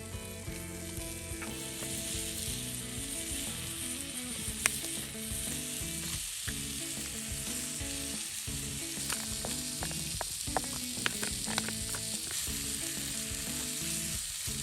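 Sliced pork belly sizzling steadily as it is stir-fried in mayonnaise in a hot sandwich maker, with a utensil tapping and scraping against the pan as it is stirred, the taps clustering in the second half.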